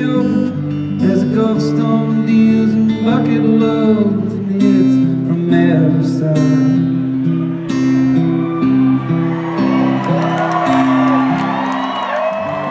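Acoustic guitar playing a song's closing instrumental live, picked notes over a steady bass line. A crowd starts whooping and cheering in the last few seconds.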